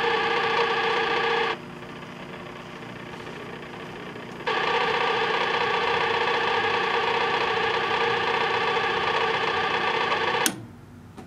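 Sharp Half-Pint microwave oven running with a steady hum. The hum drops quieter for about three seconds, comes back at full level, and cuts off with a sharp click near the end as the oven stops.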